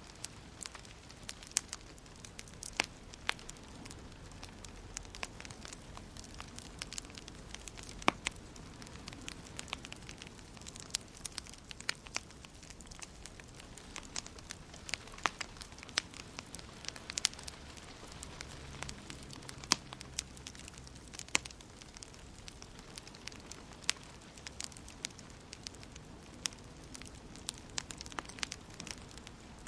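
Wood fire in a fireplace crackling, with irregular sharp pops, one louder snap about eight seconds in, over a steady soft hiss of burning.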